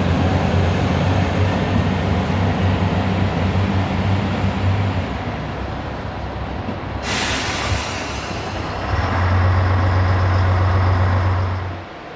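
JR Shikoku 2700-series diesel railcar's engine running with a steady low hum. About seven seconds in, a sudden hiss of released air fades away, and then the engine hum comes back.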